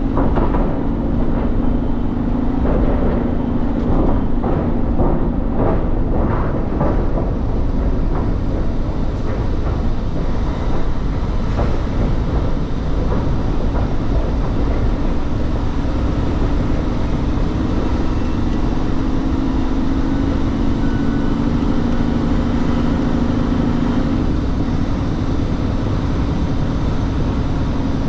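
Semi-truck driving, with steady engine and road noise. A string of knocks and rattles comes in the first few seconds, and the engine's hum grows louder about two-thirds of the way through before easing back.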